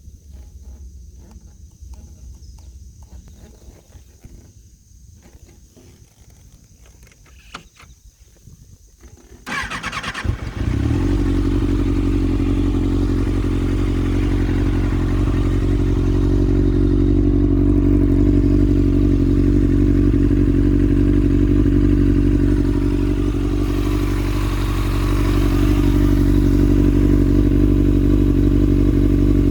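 Hot start of a 2015 Kawasaki Ninja ZX-6R 636 inline-four with an SC-Project slip-on exhaust. After about ten seconds of low background with a few faint clicks, the starter cranks briefly and the engine catches a little after ten seconds in. It then settles into a loud, steady idle.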